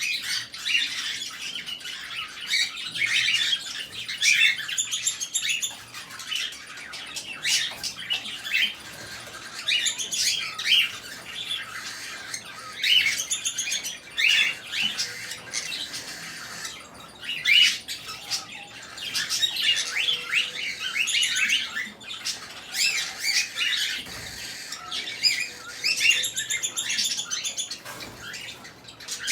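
Many small pet parrots, such as budgerigars and cockatiels, chattering together in a flock: a dense, overlapping stream of quick chirps and short squawks that never stops.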